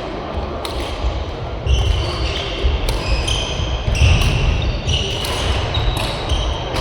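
Badminton rally: rackets strike the shuttlecock with sharp cracks about once a second, court shoes squeak on the floor, and footwork thuds.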